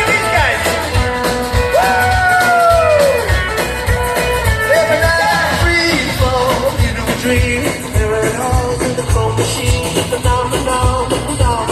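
Live band playing an upbeat rock song with a steady drum beat, the singer holding long gliding notes between sung lines.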